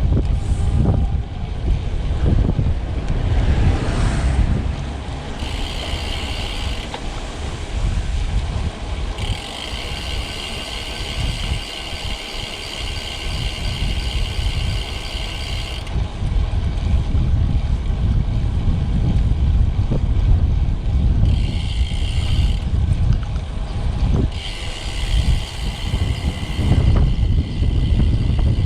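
Wind buffeting the microphone over the rumble of a road bike rolling on the road. A high, steady buzz comes in and drops out four times, the longest stretch lasting about six seconds.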